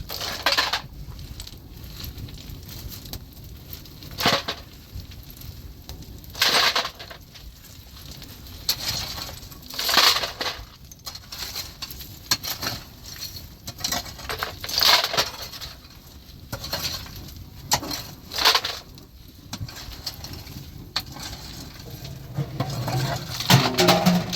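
Hand digging tool biting into stony, gravelly ground, with crunching strokes every two to four seconds and a louder, lower crunch near the end.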